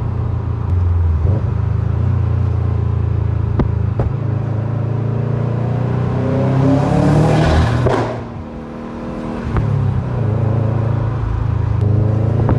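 Turbocharged Subaru WRX flat-four with a Garrett GTX3071R turbo, running steadily and then building revs. About eight seconds in, the throttle is shut and there is a sharp whooshing flutter: turbo flutter, compressor surge as the boost has nowhere to go. The revs then drop briefly before it pulls again.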